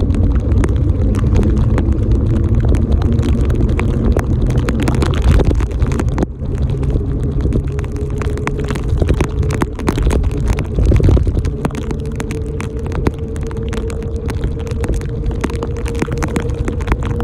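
Loud, steady rumble of road and traffic noise heard from a bicycle being ridden in the rain, with many small crackles over it. A faint steady hum joins about seven seconds in.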